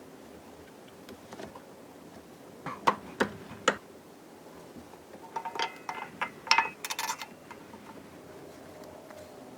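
Scattered metal clinks and taps from hand tools and engine parts. Three sharp clicks come about three seconds in, then a quick cluster of ringing clinks between about five and seven seconds.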